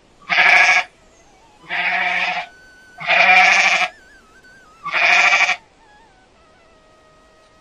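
Goat bleating four times in a row, each call under a second long with a short pause between.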